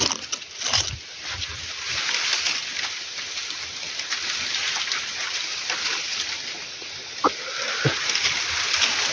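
Steady splashing, sloshing water, with two short sharp knocks about seven and eight seconds in.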